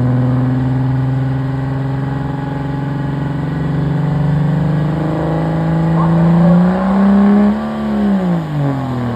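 Diesel pickup engine at full throttle under heavy load, its pitch climbing slowly, then rising sharply about six and a half seconds in before falling away as the revs drop near the end.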